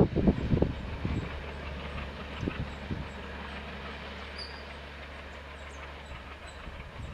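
Passenger train pulling away uphill behind a WDG3A diesel locomotive. The coach wheels clatter over rail joints in the first second or so, with a couple more knocks a little later, then a steady low rumble fades as the train recedes.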